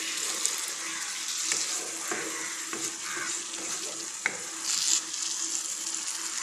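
Spiced onion-and-yogurt masala sizzling in a nonstick wok while a wooden spatula stirs whole boiled eggs through it, with a steady hiss and a few light clicks of the spatula. The eggs are being fried in the cooked-down masala.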